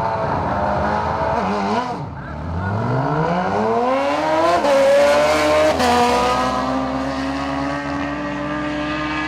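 Drag-racing motorcycle engines revving with quick throttle blips, then one engine pulls away with its pitch climbing steadily for a couple of seconds. The pitch drops in steps twice at gear changes, then settles into a steady high-revving drone.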